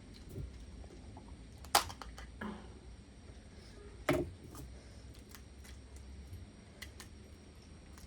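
Eating mud crab: sharp cracks and clicks of crab shell, two loud ones a little over two seconds apart, with smaller ticks after them.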